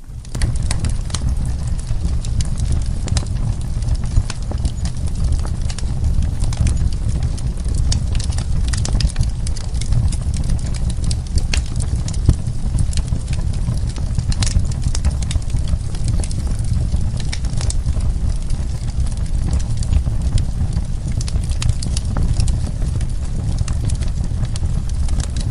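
Wood fire burning in a fireplace: a steady low rumble of the flames with frequent, irregular sharp pops and crackles from the burning logs.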